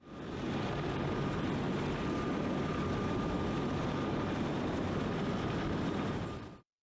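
A large engine running steadily, with a faint constant high whine. It fades in at the start and cuts off abruptly near the end.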